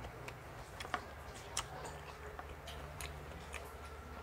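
Eating sounds: quiet chewing with a scattered series of small clicks and taps, over a low steady hum.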